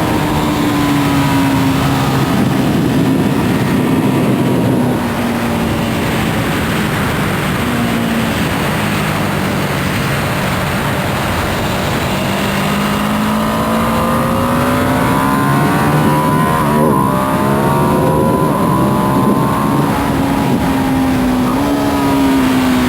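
2025 Ducati Panigale V2S's V-twin on its stock exhaust, heard onboard at track speed over steady wind noise. The engine note falls over the first several seconds as the bike slows, then climbs again through the second half, with a brief break about seventeen seconds in.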